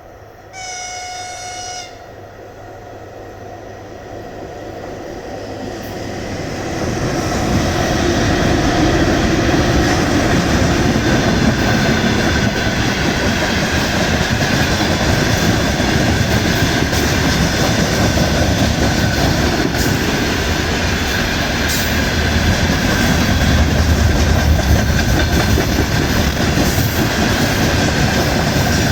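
A VL11M electric locomotive sounds one short horn blast about a second in. Then it and its freight train approach and pass: the noise of the wheels on the rails grows over the next few seconds and stays loud and steady, with some clickety-clack.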